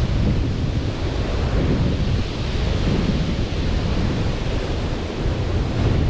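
Sea surf washing steadily onto a beach, mixed with wind rumbling on the microphone.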